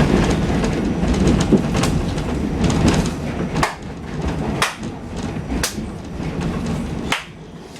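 Subway train running on the rails: a loud, steady rumble that eases after about three seconds, with sharp clacks of the wheels over rail joints roughly once a second.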